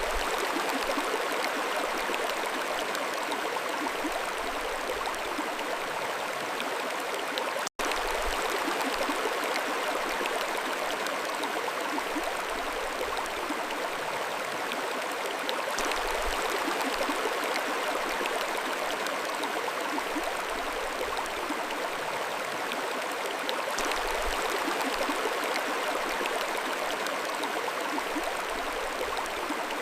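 Mountain stream flowing steadily, an even rush and babble of water. The sound cuts out for an instant about eight seconds in, then carries on.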